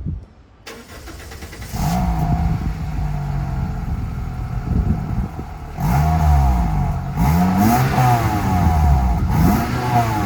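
Toyota Celica SS-II's 2ZZ-GE four-cylinder engine running, then revved in several blips from about six seconds in, the pitch rising and falling each time.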